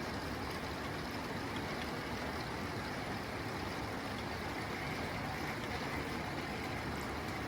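Steady rain falling on a tin roof, an even, unbroken patter.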